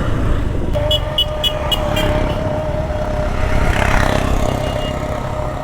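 Motorcycle riding in town traffic: steady engine and road rumble. About a second in there is a quick run of short high beeps, about four a second, and a long steady tone sets in at the same moment.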